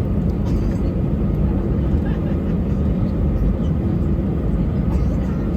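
Steady cabin noise inside an Airbus A320: a constant, even rumble of engines and airflow with no distinct events.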